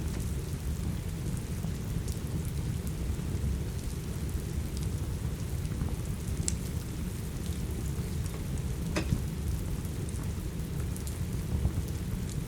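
Steady rain over a deep, even rumble, with a wood fire crackling in scattered sharp pops, the loudest pop about nine seconds in.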